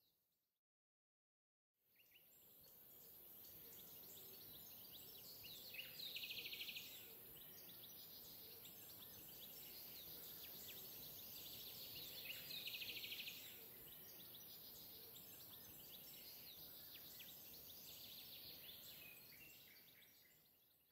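Faint bird chirps and calls over a soft background hiss, with a fast trilling call twice. It starts after a moment of silence and fades out near the end.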